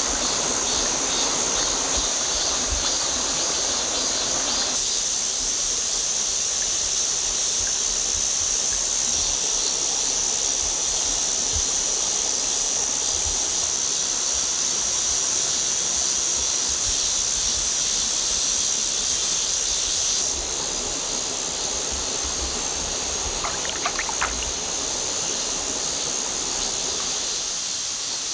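Clear mountain stream flowing steadily, an even rushing hiss of water. Its tone changes about five seconds in, and it drops slightly in level about twenty seconds in.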